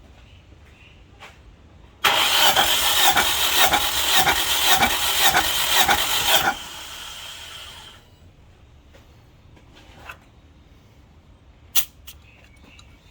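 Nissan QG18DE four-cylinder engine cranked over on its starter for about four seconds during a compression test, pulsing evenly with each compression stroke. It cuts off and is followed by a short hiss. A few sharp clicks come later.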